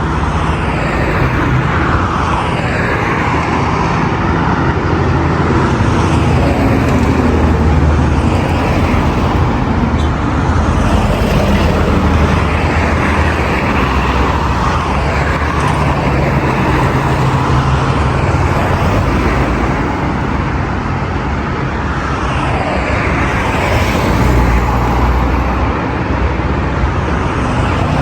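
Heavy road traffic on a busy multi-lane boulevard: a continuous hum of car engines and tyre noise, with vehicles passing close by in slow swells.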